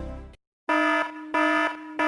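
The tail of a sung pop song fades out, then an electronic alarm buzzer sound effect beeps on and off in short, steady-pitched pulses, three of them, about one and a half a second.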